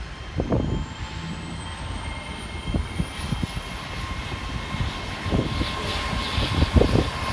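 GWR Hitachi Intercity Express Train moving through the platform. A high whine rises in pitch over the first few seconds and then holds steady, over a low rumble and some steady mid-pitched hum.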